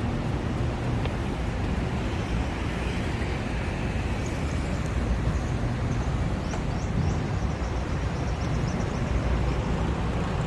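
Steady road traffic noise from a busy city street: a constant low rumble with no single vehicle standing out.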